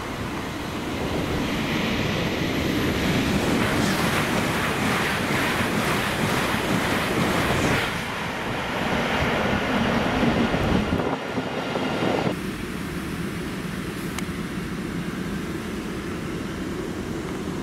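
Hitachi-built LNER Azuma high-speed train passing close by: a steady rushing of wheels on rail and air, swelling over the first few seconds. About twelve seconds in the sound switches abruptly to a quieter steady hum, as of an Azuma standing at a platform.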